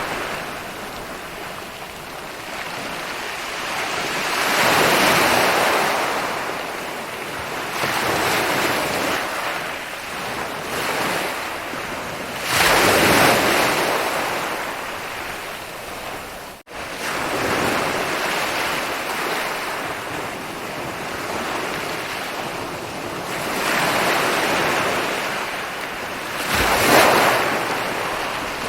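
Ocean waves rolling in and breaking on a beach, surging louder and falling back every few seconds. There is a momentary cut in the sound about two-thirds of the way through.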